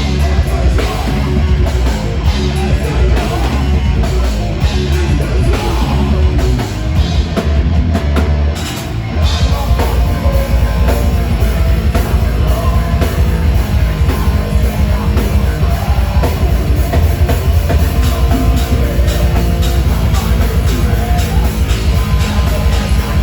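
Heavy metal band playing live: guitars, bass and a drum kit at full volume. About eight seconds in the band drops back briefly, then comes back in with fast, steady drumming.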